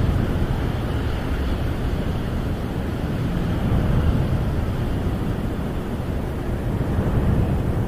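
Snowstorm wind howling around a camper, heard from inside: a steady, deep rush that swells a little about four seconds in and again near the end.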